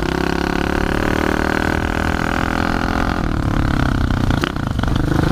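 Pit bike engine running at a steady high rev for about three seconds, then easing off to a lower, pulsing note.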